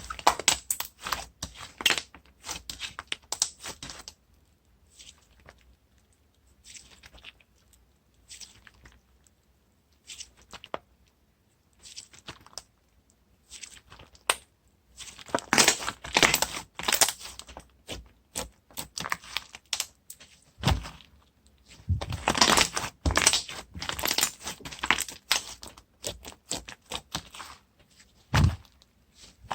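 Toffee slime being squeezed, poked and stretched by hand, giving irregular sticky crackles and pops. The crackling is busy at the start, thins out for several seconds, then grows dense again from about halfway in.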